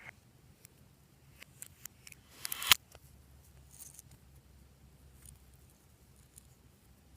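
Fluffy slime being worked by hand: scattered small sticky clicks, and about two and a half seconds in a louder swelling crackle that ends in a sharp snap.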